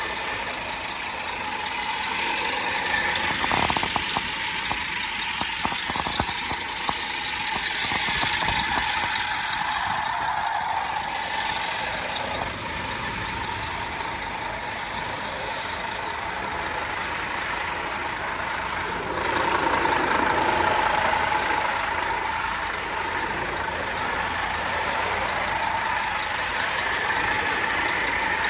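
Scania P230 truck's diesel engine running at idle, with a few light clicks early on.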